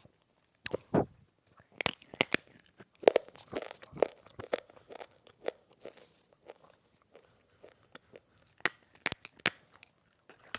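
Dry multani mitti (Fuller's earth clay) being bitten and chewed close to the microphone: sharp crunches at irregular intervals, a few loud bites among softer crumbling chews.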